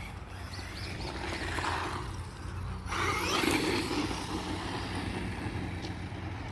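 HBX 903a 1:12 brushless RC truck driving, its tyres scrabbling over loose ground, with the brushless motor whining up as it accelerates about three seconds in.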